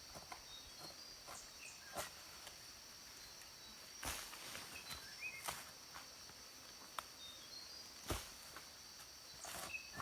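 Steady high-pitched insect drone, with a few short chirps and a handful of sharp knocks, the loudest about two, four and eight seconds in.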